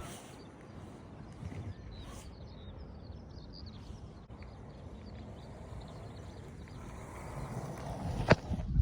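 Strong wind buffeting the microphone over the steady rumble of skateboard wheels rolling on pavement, with one sharp clack near the end.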